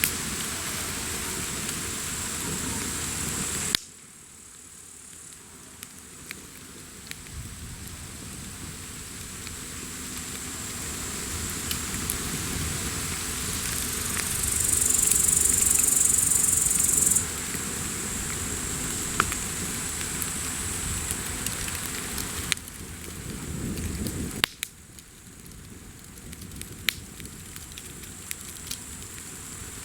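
Wood bonfire crackling, with sharp snaps and pops over a steady hiss. A louder high hiss rises briefly about halfway through, and the whole sound drops abruptly in level twice, at about 4 s and 24.5 s.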